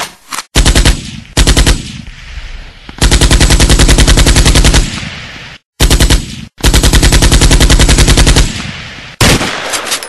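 Automatic gunfire sound effect: several bursts of rapid, evenly spaced shots of differing length, the longest lasting nearly two seconds, each burst trailing off in a fading echo.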